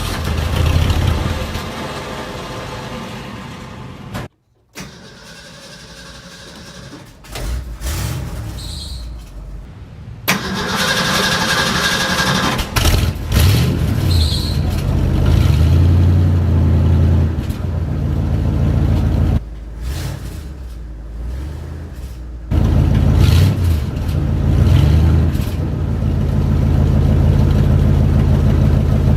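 Exhaust of a 1967 Ford F-100's 352 V8 running just after a cold start, idling with the revs raised a few times. The sound cuts out briefly about four seconds in, then gets louder from about ten seconds in.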